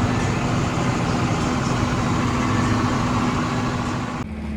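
Diesel tractor engine running at a steady speed, with a hiss over it that drops away abruptly near the end.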